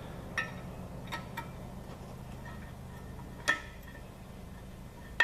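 A few sparse, light metallic clicks and taps from the cam bearing installation tool being handled and tightened in the engine block, the loudest about three and a half seconds in, over a faint steady hum.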